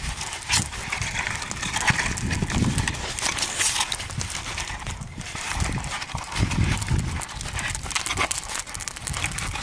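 Irregular crackles and knocks with uneven low rumbling swells underneath.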